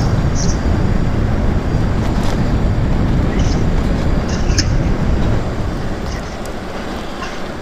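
Steady wind and road noise from riding an e-bike along a street, heaviest in the low end, with a few faint short high ticks.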